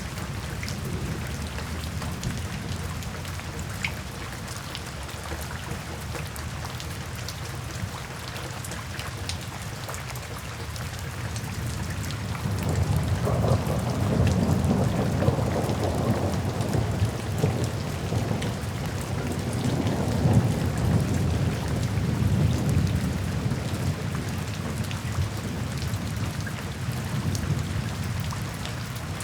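Steady rain falling, with fine drop ticks. About twelve seconds in, a long roll of soft thunder builds, rumbles for around ten seconds and slowly fades back under the rain.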